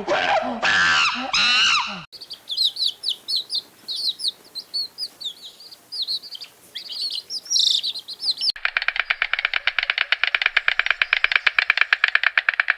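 Small songbirds chirping in quick short notes for several seconds. This is preceded by the tail of a different animal's pitched, wavering call, and followed, about two-thirds of the way in, by a fast, even, rattling pulse.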